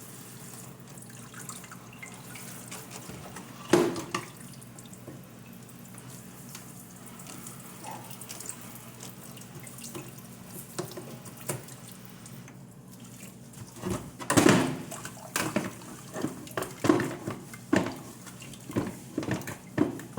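Water running from a tap into a sink, with a loud knock about four seconds in and a series of sharp knocks and clatters in the last six seconds.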